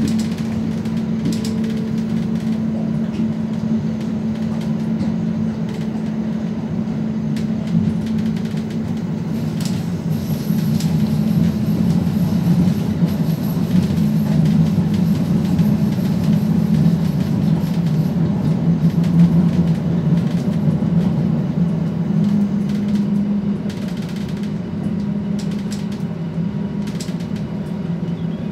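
Inside a Regio-Shuttle diesel railcar under way: the steady low drone of its diesel engine mixed with the noise of the wheels on the rails, with a few faint clicks. It grows a little louder through the middle stretch and eases slightly near the end.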